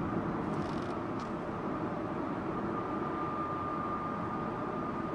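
Steady road and engine noise inside the cabin of a Subaru Impreza Sports Wagon on the move. A faint steady high tone joins about three seconds in, and there is a brief hiss and click about a second in.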